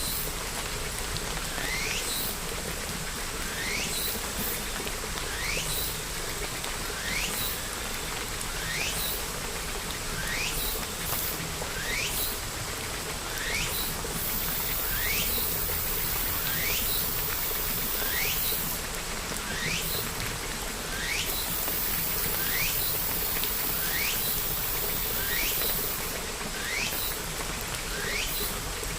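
Steady rain falling, with a short chirp that rises in pitch repeating about every one and a half seconds.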